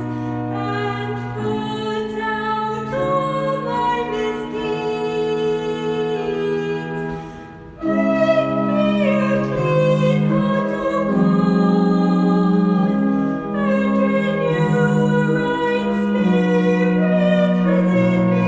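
Church music: sustained chords with a singing voice over them. The music dips about seven and a half seconds in, then comes back louder.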